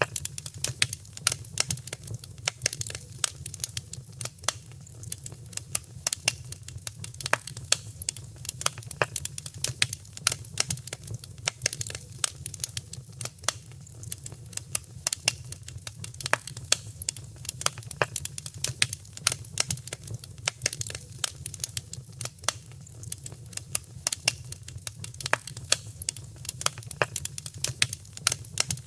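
Wood fire crackling: dense, irregular sharp pops and snaps over a steady low rumble underneath.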